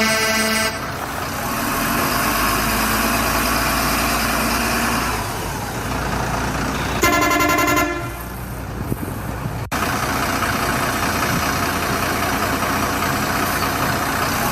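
Truck horn honking twice, each blast under a second long, once at the start and again about seven seconds in, over steady truck engine running noise.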